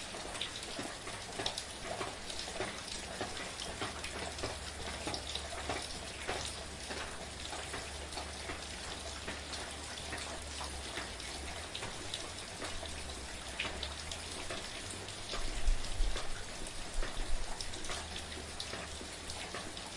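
Steady soft rain, with many individual drops pattering and ticking over an even hiss. A low rumble comes and goes underneath and swells briefly about three-quarters of the way through, the loudest moment.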